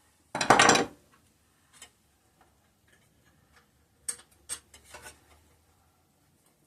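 Hand work on a small engine: a loud, brief clatter about half a second in, then light clicks and two sharp metallic clicks with a short rattle around four to five seconds in, from tools and parts being handled.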